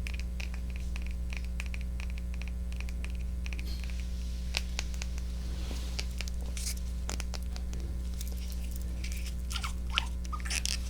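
Scattered soft clicks and short scratchy rustles close to a 3Dio binaural microphone, a little busier about halfway and near the end, over a steady low hum.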